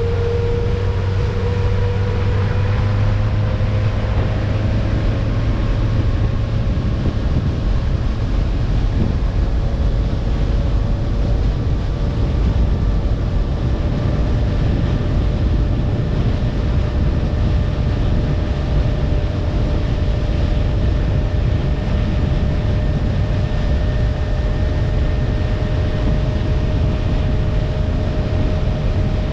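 Boat motor running steadily as the boat cruises, over a heavy low rumble. Its tone drifts slightly higher over the first few seconds, then holds.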